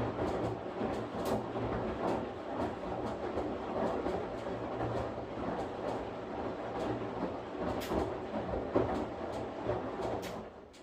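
Washing machine running: a steady motor hum under the churning of the drum, with frequent clicks and knocks. The sound cuts off suddenly near the end.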